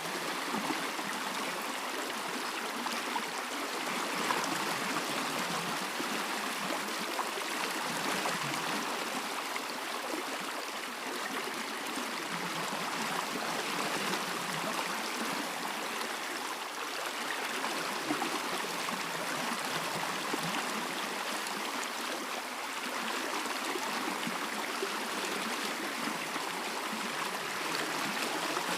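A stream flowing steadily, an even rushing and gurgling of water.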